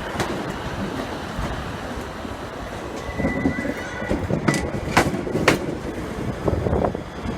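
Train moving through a station with a steady rumble. A thin high wheel squeal comes in about three seconds in, and a few sharp clicks follow near the middle.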